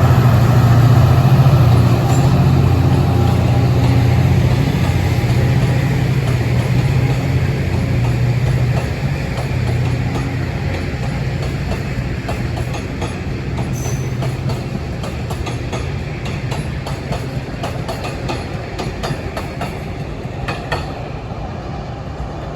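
A train going by: a low locomotive drone at first that fades as the cars roll past, then wheels clicking over rail joints while the whole sound slowly dies away.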